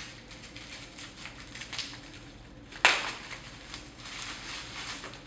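Bubble wrap and plastic packaging crinkling and rustling as a lighting dimmer is unwrapped, with one sharp, loud crackle about three seconds in.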